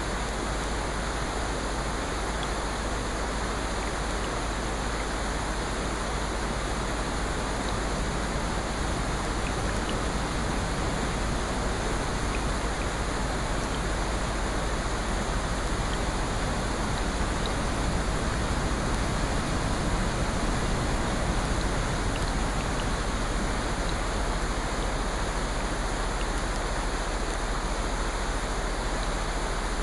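Steady rushing water ambience of a relaxation recording, with faint scattered ticks and a gentle swell in loudness near the middle.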